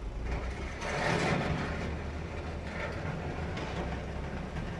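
Heavy diesel machinery running with a steady low rumble. About a second in there is a louder, noisy swell, and weaker ones follow later.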